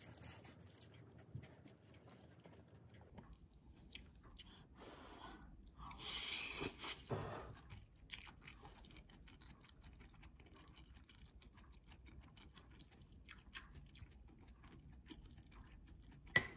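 Quiet chewing of a mouthful of onion-and-egg rice, the stir-fried onion slices crunching. Near the end a single sharp clink of a metal spoon against the ceramic bowl.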